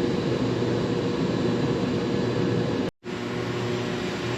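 Steady mechanical hum and hiss, broken by a sudden gap of silence about three seconds in.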